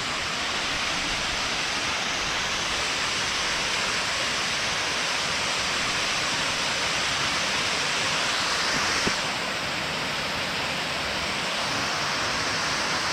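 Waterfall rushing: a steady, dense noise of falling water, close by. The high hiss eases slightly about nine seconds in.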